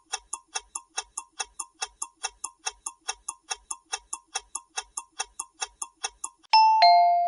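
Countdown timer sound effect ticking fast and evenly, about five ticks a second, then a two-note descending chime near the end to mark that time is up.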